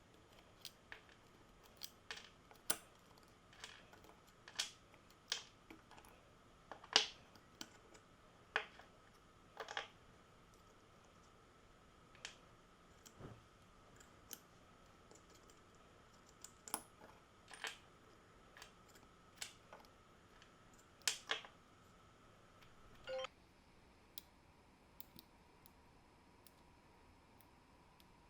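Irregular light clicks and taps of small metal parts and tools being handled while the rusty cordless drill is worked on, over a faint steady tone that shifts slightly lower about five seconds before the end.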